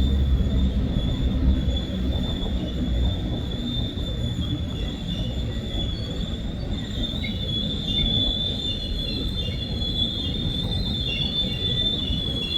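A train passing with a steady, high-pitched squeal from its wheels over a low rumble. A second, wavering squeal joins in during the latter half.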